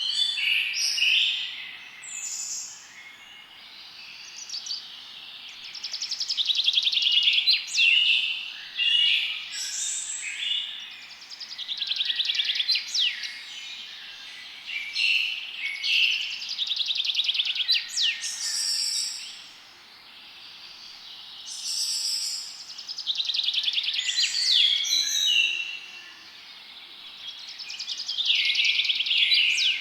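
Several songbirds singing and chirping in a forest: overlapping phrases that swell and fade every few seconds, with fast trills and quick high down-slurred notes over a faint steady background hiss.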